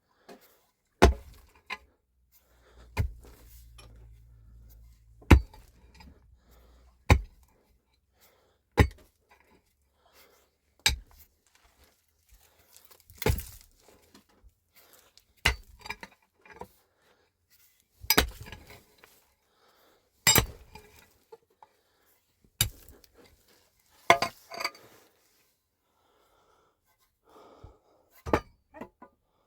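Repeated sharp knocks, more than a dozen, coming irregularly a second or two apart.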